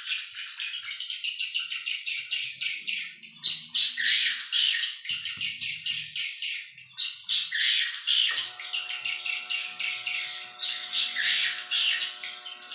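Dense, continuous twittering and chirping of swiftlets. About eight seconds in, a steady hum of several even tones starts beneath it and runs on.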